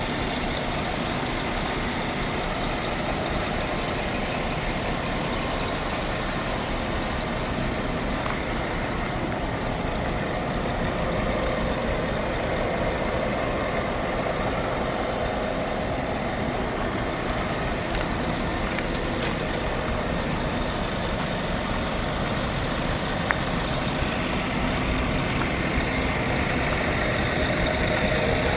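Scania P400 truck's 13-litre straight-six diesel engine (DC13) running steadily, growing slightly louder near the end.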